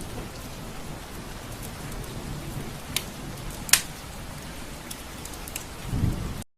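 Steady rain falling on window glass, with a couple of sharper drop ticks around the middle and a low rumble near the end; the sound then cuts off abruptly.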